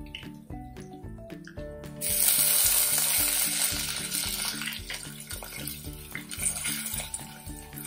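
Mustard paste tipped into hot oil in a clay pot: a loud sizzle starts suddenly about two seconds in and slowly dies down as it is stirred. Background music plays throughout.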